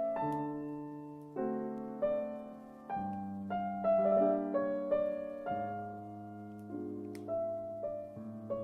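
Slow, gentle background piano music, single notes and chords struck one after another and left to ring and fade.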